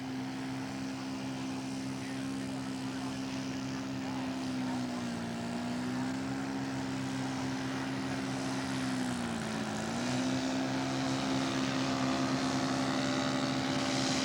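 Radio-controlled scale model airplane's engine and propeller running at a steady pitch on landing approach. The pitch dips briefly twice, and the sound grows slowly louder as the model comes closer.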